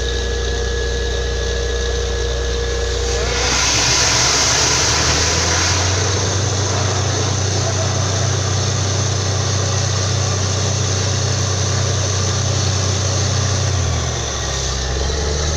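Borewell drilling rig's engine running steadily. About three seconds in its note rises as it speeds up and a loud rushing hiss joins it. It sags briefly near the end and picks up again.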